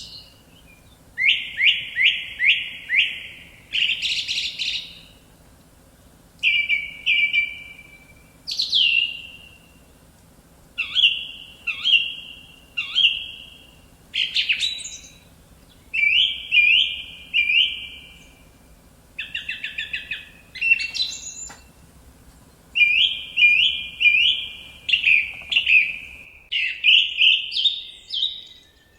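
A songbird singing loud, short phrases of repeated chirping notes, a phrase every second or two. A faint low hum underneath drops away near the end.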